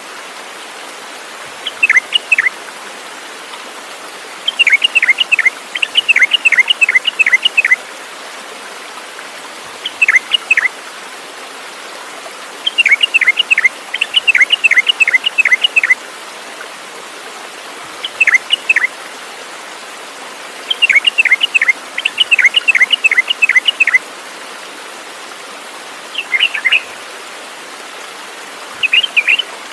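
A songbird calling in bursts of quick, sharp chirps, each sweeping down in pitch, in runs of two to eight notes every few seconds, over a steady background hiss.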